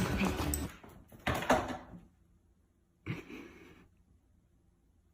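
Two short knocking sounds: a brief one about a second in and a sudden, louder thud about three seconds in that dies away quickly.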